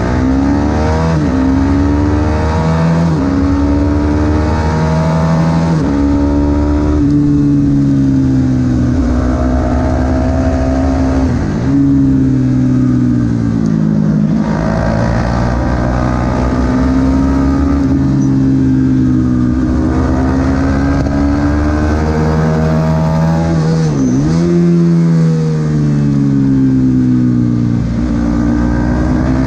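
Supersport 300 racing motorcycle engine accelerating and slowing through the gears. Its pitch climbs and drops again and again, with sudden breaks at the gear changes and a deep plunge about three-quarters of the way through.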